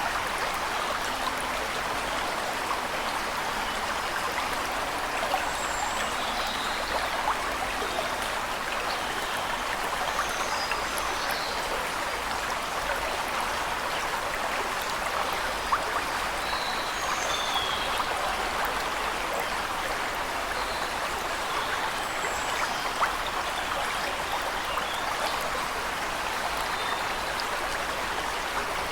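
Steady rushing and splashing of a waterfall, with a few faint, high bird chirps now and then above it.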